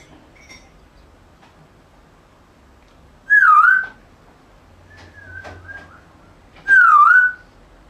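African grey parrot whistling: two loud swooping whistles, each dipping in pitch and rising back, about three and a half seconds apart, with a fainter level whistle between them.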